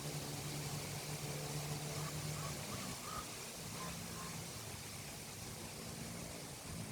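A steady low engine hum, its pitch shifting slightly about three seconds in, under a constant hiss.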